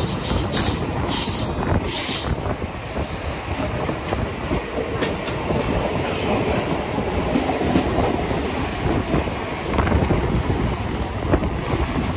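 Mumbai suburban electric trains running at speed: a steady rumble of wheels on rail, with a rhythmic clatter over the rail joints in the first couple of seconds. A second local train runs close alongside on the next track.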